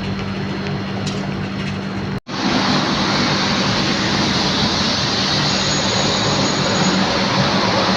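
Jet airliner engine noise, a steady rush with a low hum, broken by a sudden cut about two seconds in. After the cut the jet noise of a Boeing 737-800 is louder, and a faint high whine comes in near the end.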